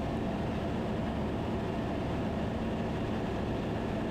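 Steady drone of a Van's RV-10's piston engine and propeller inside the cabin in flight, with a low steady hum and no change in pitch.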